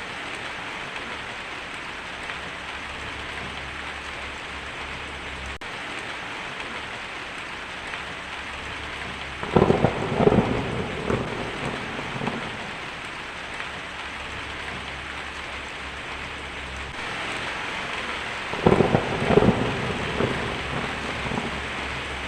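Heavy rain drumming steadily on a tin roof, with two claps of thunder crackling and rumbling, the first about halfway through and the second near the end.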